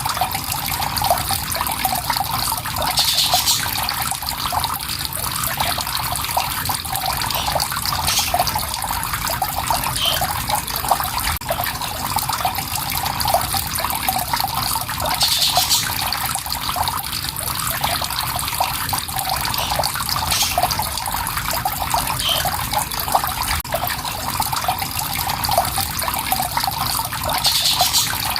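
Water flowing and trickling steadily, with short high bird chirps now and then, recurring about every twelve seconds.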